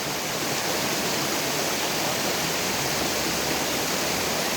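Steady rushing of water at a waterfall and river.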